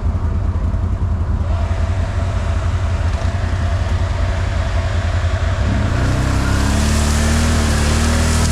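Off-road vehicle engine running with a steady low drone as it drives through brush. About six seconds in it revs up: the engine note rises and a hiss grows louder.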